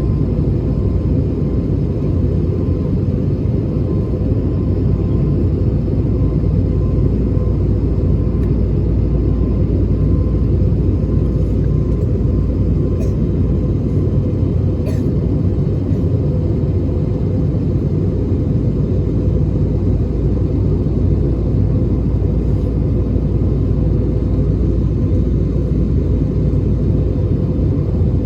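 Steady cabin noise of an Airbus A321neo in its climb: a constant low roar of engines and airflow, with a steady hum underneath, heard from inside the cabin.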